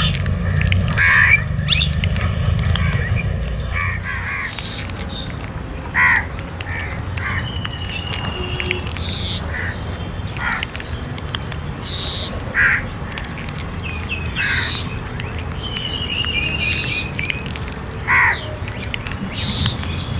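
Crows cawing: single harsh caws every five or six seconds, with thinner chirping calls between them over a steady low background noise.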